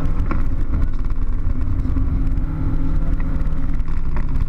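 Car engine running at a steady speed, heard from inside the cabin over heavy low road and wind rumble, with two brief clicks, one near the start and one near the end.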